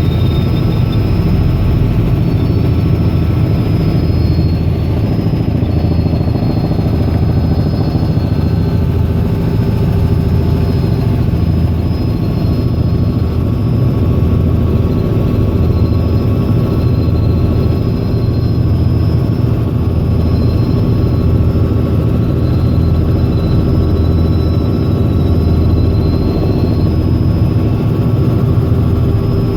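Robinson R66 helicopter's Rolls-Royce RR300 turbine and rotor running steadily: a loud, even drone with a faint high whine above it.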